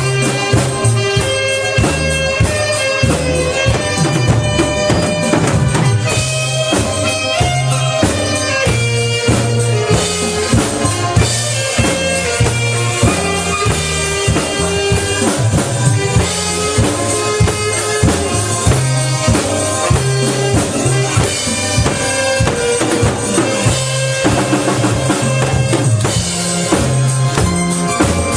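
Saxophone and drum kit playing a song together: a steady beat on bass drum and snare under a sustained melody line.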